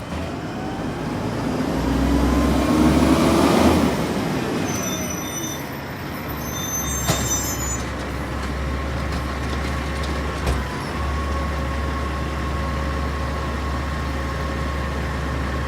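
Refuse truck engine pulling away, its note rising over the first four seconds, then running on at a steady drone with a faint steady whine. It sounds odd, as if the fan is running, and the truck is slow: on its last legs.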